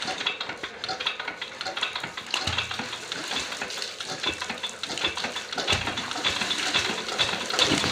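Water churning and splashing with a dense, irregular crackle, as from a submerged propeller or fan stirring it. There is no steady engine note.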